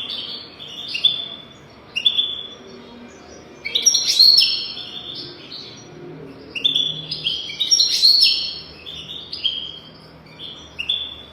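European goldfinch singing: quick twittering phrases of short chirps and trills that come in bursts with short pauses. The song is loudest about four seconds in and again near eight seconds.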